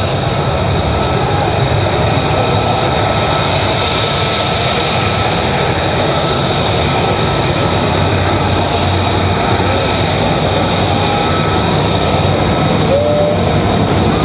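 F-35C's jet engine running at taxi power: a steady high whine over a continuous rumble.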